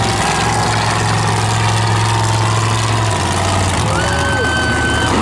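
Monster truck engine idling steadily, its low hum stepping down in pitch about three seconds in. Near the end a steady high tone sounds for about a second.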